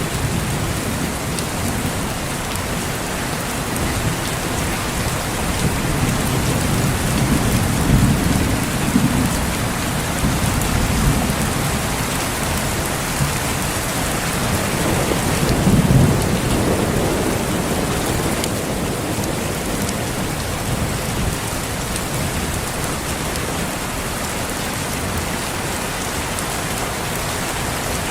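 Steady heavy rain falling, with low rolls of thunder swelling under it and the loudest rumble about halfway through.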